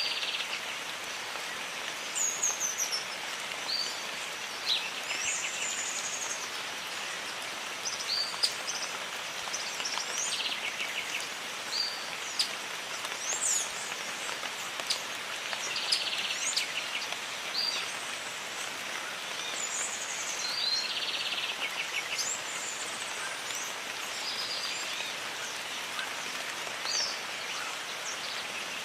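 Steady rain hiss with birds calling over it: short falling chirps and quick trilled phrases repeating every second or two.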